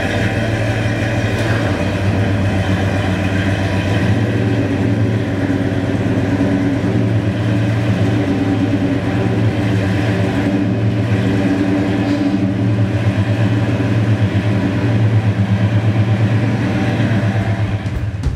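1967 Ford F100 pickup's engine idling steadily, a little louder for a moment about fifteen seconds in.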